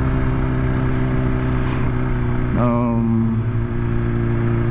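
2020 BMW S1000RR's inline-four engine running steadily while riding, on its stock exhaust, with a brief rise and change in the engine note about two and a half seconds in.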